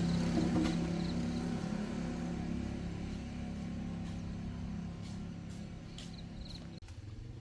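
Heavy-duty truck engine running steadily and slowly growing fainter, as if the truck is pulling away; the sound drops off abruptly near the end.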